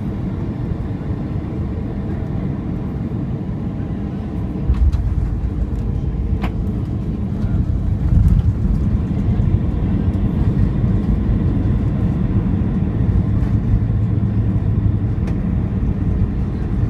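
Cabin noise of an Airbus A320 on landing: a steady low rumble of engines and airflow. A knock comes about five seconds in, and the rumble grows louder from about eight seconds on.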